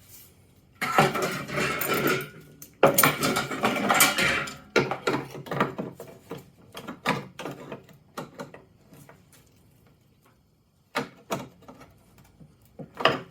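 Steel engine door being pushed and shifted against the scooter body: two scraping, rattling metal passes of about two seconds each, then scattered clicks and knocks. The panel rubs where it still lacks clearance.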